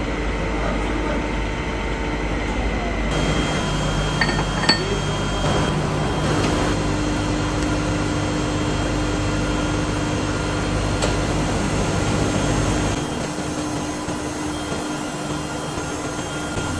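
Workshop machinery running with a steady hum and faint whine-like tones, with a couple of light clicks about four to five seconds in; the sound changes abruptly about three seconds in and again about thirteen seconds in.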